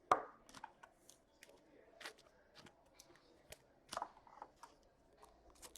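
Trading cards being handled and flipped through by hand: a scatter of short clicks and light slides of card stock, with a louder one just after the start and another about four seconds in.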